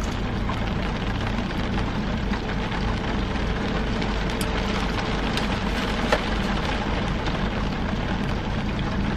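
Rain falling steadily on the car roof, heard from inside the cabin as an even hiss over a low steady hum, with a few faint clicks from chewing.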